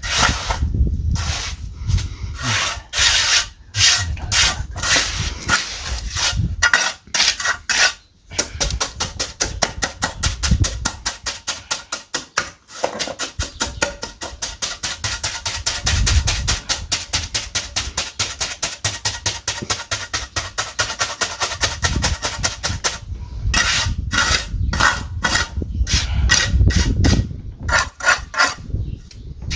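A hand tool worked in quick back-and-forth strokes. The strokes are uneven at first, then settle into a steady run of several a second for about fourteen seconds, and turn uneven again near the end.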